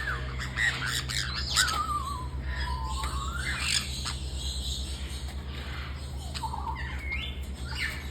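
Parrot calls: whistles and squawks that sweep up and down in pitch, several in the first few seconds and another near the end, over a steady low hum.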